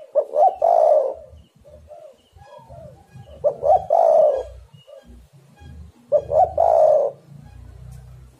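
Spotted dove cooing: three loud phrases about three seconds apart, each a couple of short notes running into a longer coo, with softer cooing between them.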